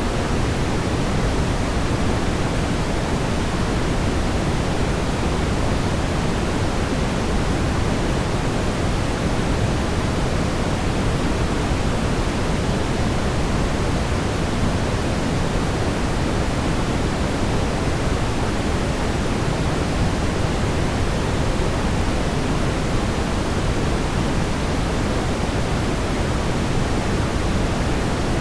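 Steady brown noise: an even, unchanging rumbling hiss weighted toward the low end, with no breaks or events.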